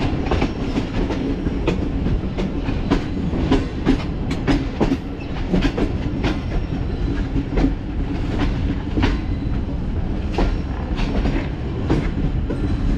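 Hazara Express passenger train running along the track: a steady rumble with the wheels clicking over rail joints, roughly one to two clicks a second.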